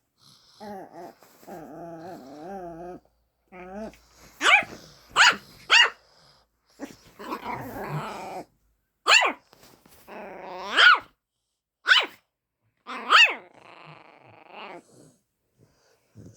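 A pet dog growling in a long, wavering grumble, then giving a run of short, sharp barks, about seven of them, with growling between, in excited play barking.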